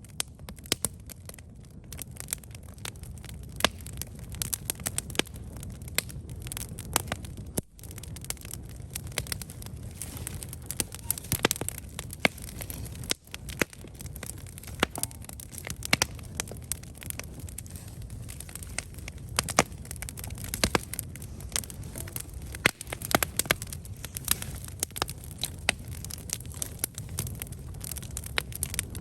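Campfire burning, with frequent sharp crackles and pops of burning wood over a steady low rumble of flame.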